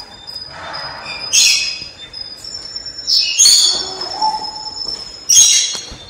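Three loud, harsh bird squawks about two seconds apart, over thin, high, steady chirping.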